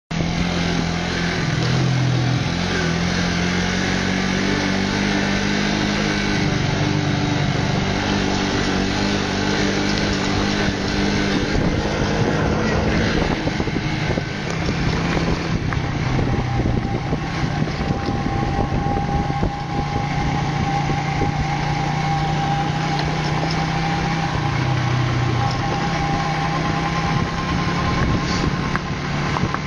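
Small motorcycle engine running while riding, heard from on board with wind rushing past; its pitch holds for a few seconds at a time and steps up and down several times with throttle changes.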